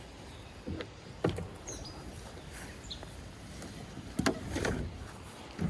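Scattered hollow knocks and bumps of gear against a plastic kayak, about five in all, the loudest a little past the middle. A couple of faint bird chirps.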